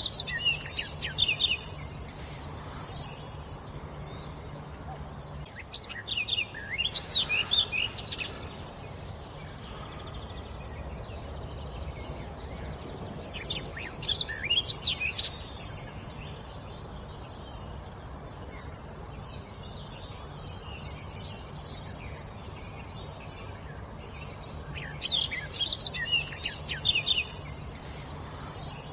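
A songbird singing in short phrases of quick, high chirping notes, four phrases spaced several seconds apart, over a faint steady low hum.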